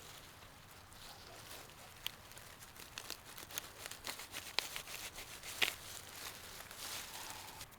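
Dry forest litter, leaves and twigs, rustling and crackling in scattered light handling noises, with a few sharper snaps about four and a half and five and a half seconds in.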